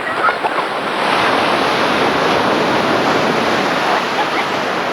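Sea waves washing steadily, with wind on the microphone.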